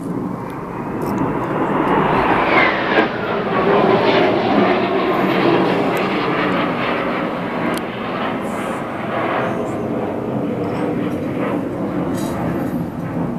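Formation of display aircraft flying past overhead. The engine sound rises in loudness, and its pitch falls steeply a few seconds in as the aircraft go by, then the sound stays loud and rushing.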